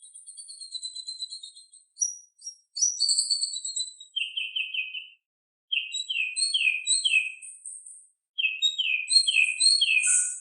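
White-rumped shama (murai batu) singing: a high, fine trill, then phrases of short down-slurred whistled notes repeated three or four at a time, with brief pauses between the phrases.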